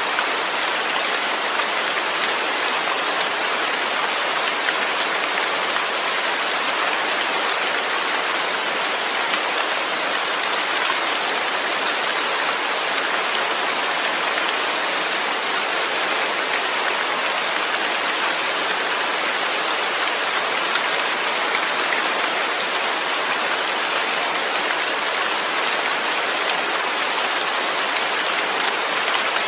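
Steady, even rain falling, a continuous hiss of drops without breaks or changes.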